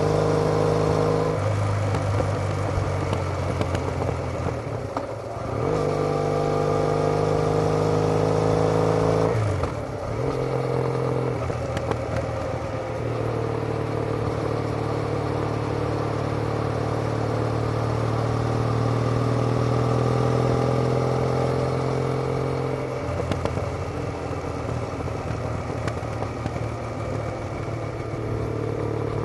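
Triumph Bonneville's parallel-twin engine through TOGA aftermarket silencers while riding. The exhaust note shifts down and back up a few times in the first ten seconds, then holds a steady cruising note, easing off slightly about 23 seconds in.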